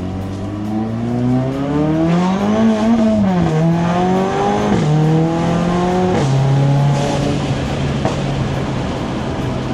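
Mercedes-AMG A45's turbocharged four-cylinder engine with a Milltek exhaust, accelerating hard through the gears. The pitch climbs, then drops sharply at three quick upshifts, and settles into a steady cruise after the last.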